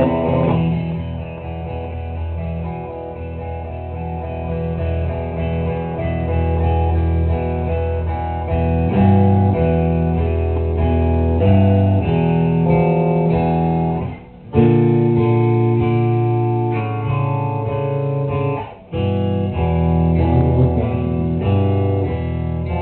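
Live rock band music: guitars playing slow, ringing chords that change every second or two, with low notes underneath. The playing stops briefly twice, about fourteen and nineteen seconds in.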